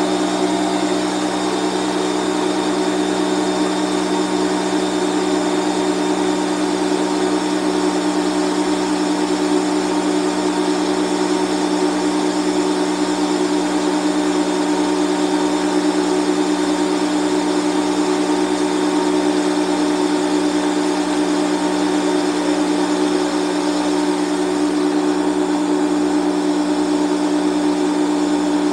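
Bostitch 6-gallon air compressor's motor and pump running steadily, filling the tank after a repair; the pressure is still building and the compressor has not yet cut off.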